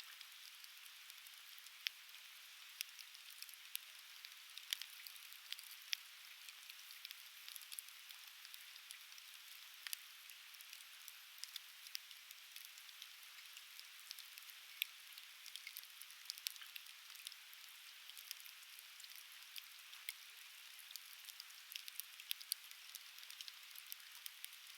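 Conifer firewood burning in a fire pit, crackling with frequent irregular sharp pops over a steady soft hiss.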